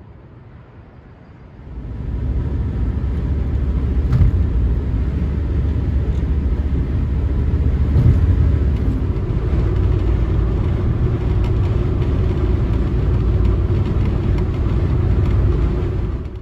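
Car driving along a road: a steady low rumble of engine and tyres that starts about two seconds in and cuts off abruptly at the end.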